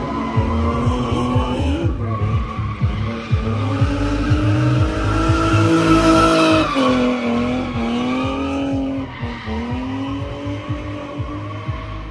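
Drift car engine revving hard with tires squealing as it slides. The engine pitch climbs to a peak about six to seven seconds in, drops sharply, then rises again.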